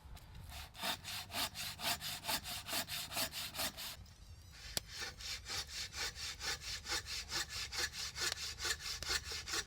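Hand saw cutting through wood with quick, even back-and-forth strokes, pausing briefly about four seconds in.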